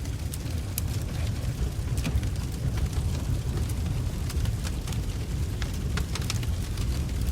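Wood fire burning in a fireplace: logs crackling with irregular sharp pops over a steady low rumble of flames.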